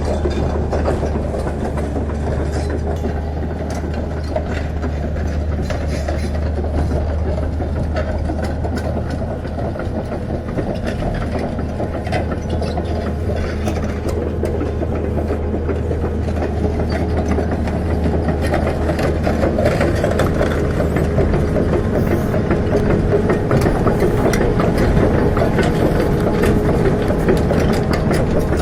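Excavator's diesel engine running steadily, with scattered clanks and rattles from the machine as it works, getting a little louder in the last third.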